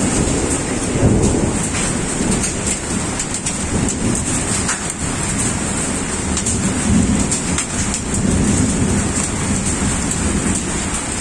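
Torrential rain mixed with hail: a dense, loud, steady hiss of rain with many sharp ticks of hailstones striking. Slow low rumbling swells rise and fall through it.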